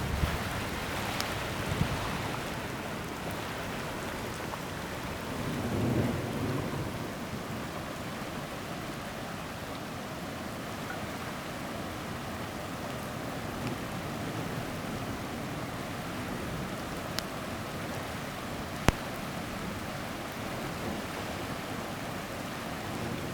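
Heavy monsoon rain pouring steadily, with a low rumble of thunder about six seconds in and a single sharp click later on.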